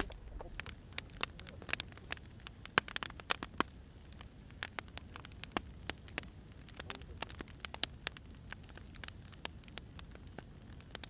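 Firewood burning, crackling with irregular sharp pops over a low steady rumble; one of the loudest pops comes about three seconds in.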